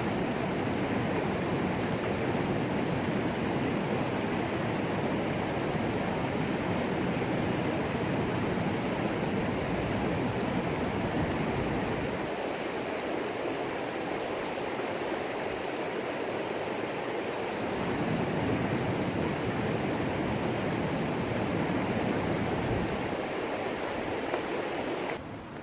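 Rushing river water tumbling over rocks and small falls, a steady full hiss that cuts away to a quieter background just before the end.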